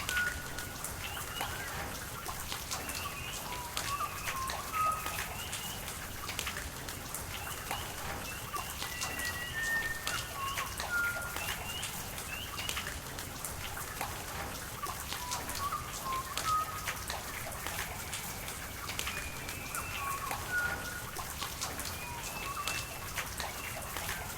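Rain falling with sharp, scattered drips and a steady wash of water, under frequent short chirping calls of birds at several pitches.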